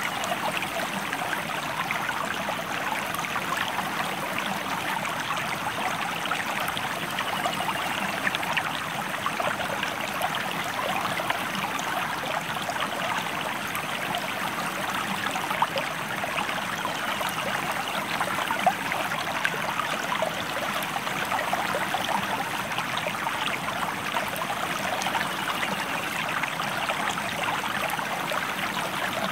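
River water running steadily, a dense, even rush with many small splashes throughout.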